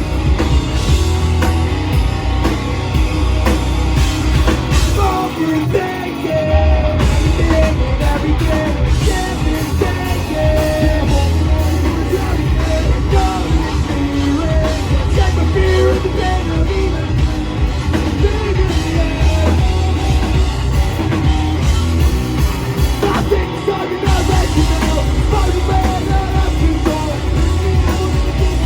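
Live rock band playing loudly: drum kit, bass and electric guitars, with a wavering melody over the top. The low end drops out briefly twice, about five seconds in and again near the end.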